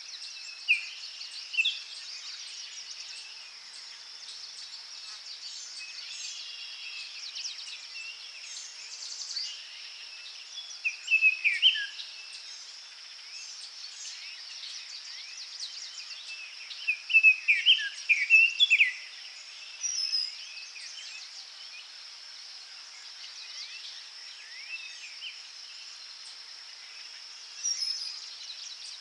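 Forest birds singing in short chirping and whistled phrases, a loud flurry about a third of the way in and again past the middle, over a steady high-pitched insect hum.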